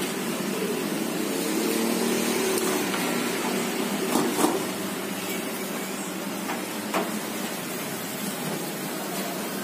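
Steady background din at a street food stall, with three short clicks around the middle.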